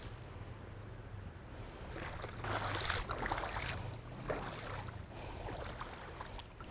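Shallow stream water sloshing and splashing around rubber boots as someone wades, over the steady rush of the current, with the strongest splashing a little before the middle.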